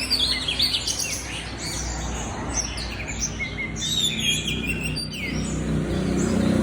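Several songbirds chirping and calling over one another in quick up-and-down notes, busiest in the first second and again about four seconds in.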